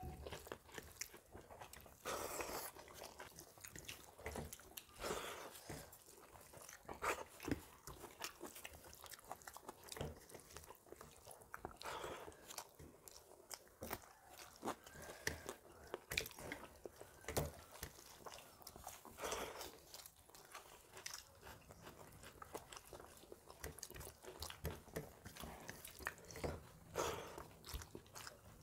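Close-miked eating by two people: chewing and mouth sounds of rice with brinjal fry, with fingers scraping and mixing rice on steel plates, in many short irregular clicks.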